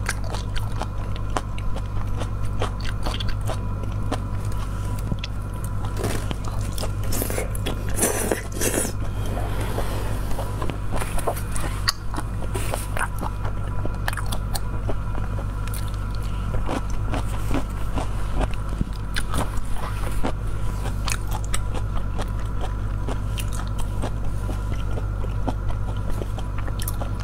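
Close-miked chewing of a peeled prawn, with many small wet mouth clicks and crunches, over a steady low hum.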